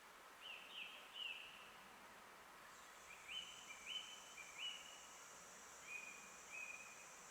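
Faint forest birdsong: one bird gives short, sharply rising chirps in small groups of about three, the later ones lower and shorter. About three seconds in, a steady high buzz joins, over a soft background hiss.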